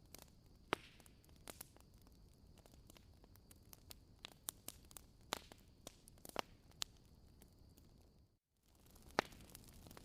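Wood fire crackling in a fireplace: irregular sharp pops and snaps over a low hiss. A bit past eight seconds the sound cuts out completely for a moment, then resumes.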